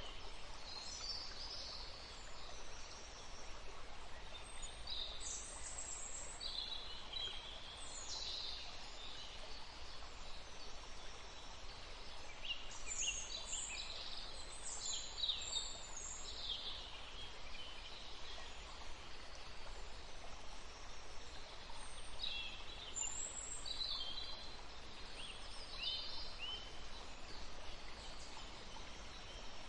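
Forest songbirds chirping and singing, many short calls and trills, busiest around the middle, over a steady background hiss.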